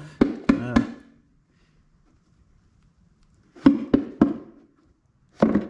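Sharp knocks in quick groups of three, a quarter second apart, once near the start and again after a pause of about three seconds, from handling the ATV's airbox and dirty air filter.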